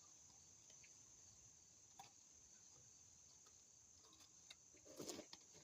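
Near silence with a faint, steady, high insect trill, broken by a few light clicks and a brief rustle about five seconds in.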